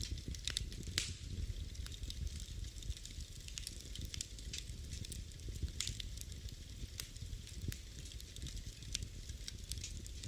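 Wood fire burning in a fireplace: irregular sharp crackles and pops over a steady low rumble of the flames, with a few louder pops near the start.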